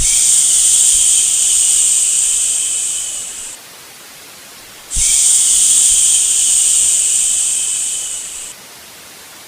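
Long, loud shushing "shhh" sounds, two in a row, each lasting about three and a half seconds and tailing off at the end, over a quieter steady white-noise hiss: a sleep-soothing shush for a baby.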